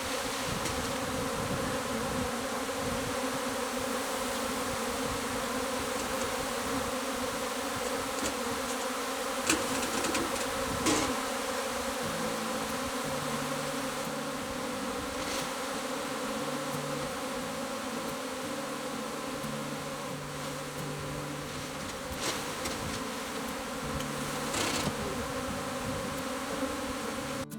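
A large honeybee swarm buzzing steadily, a dense continuous hum. A few short sharp knocks come through it about a third of the way in and again near the end.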